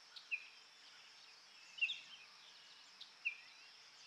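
A bird giving a short high chirp about every second and a half, three times, over a steady high insect hiss.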